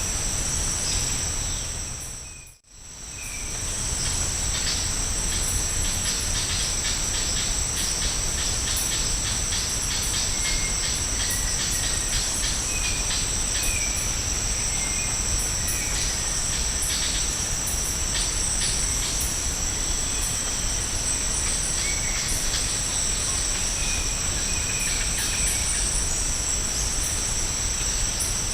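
Rainforest ambience carried by a steady, shrill insect chorus holding two high tones, with scattered short chirps and ticks over it. The sound dips away and fades back in about two and a half seconds in.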